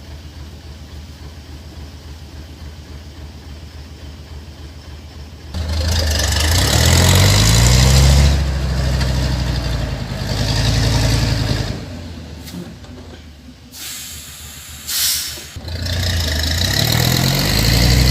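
A log-hauling semi-truck's diesel engine runs low and steady, then is revved hard about five seconds in, its pitch climbing as it labours through mud. It eases off for a few seconds, there is a short hiss of air, and it revs up hard again near the end.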